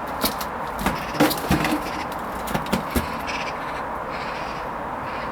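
Hoover Vision HVP16 washing machine running a Silks wash cycle: a steady hum and wash noise, with a cluster of short knocks and clicks in the first three seconds.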